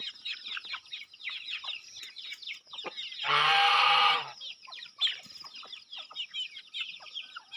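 Many small birds chirping rapidly and without pause, with a chicken giving one loud call lasting about a second, three seconds in.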